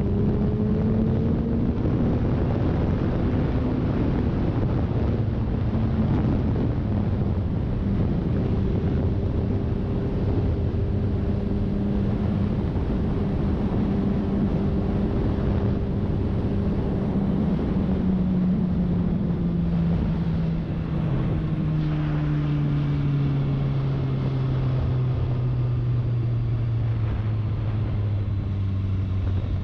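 Motorcycle engine pulling at a steady pace under heavy wind rush over the microphone. Its note sinks gradually in the last third as the bike eases off.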